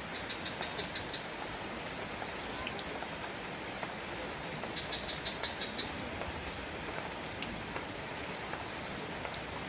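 Steady rain falling. Twice it is joined by a short run of about seven rapid high-pitched chirps, once near the start and once about five seconds in.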